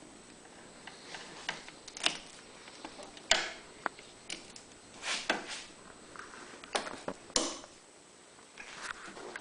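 Hands working a rubber fuel hose and tools on a small generator: scattered light clicks and rustles, the sharpest about three seconds in.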